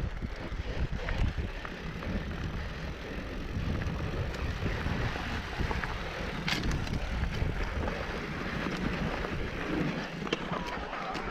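Wind buffeting the microphone over the rumble of a mountain bike rolling along a dirt trail, with scattered rattles and clicks.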